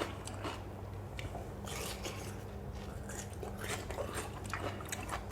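A person chewing and biting food close to the microphone: irregular wet crunching and smacking, typical of eating a spicy lotus-stem and fresh-shrimp salad. A steady low hum runs underneath.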